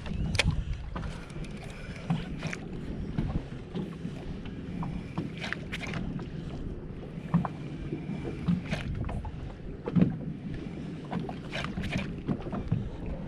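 Water lapping against a small boat's hull, with scattered irregular knocks and clicks and some wind on the microphone.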